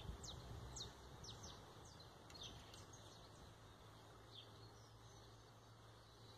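Faint, high bird chirps: quick downward-sweeping notes, many in the first three seconds and only a few after, over a faint low steady hum.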